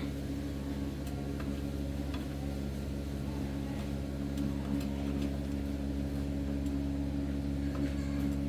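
Small gasoline engine running steadily at a constant speed, a steady hum with a few faint clicks.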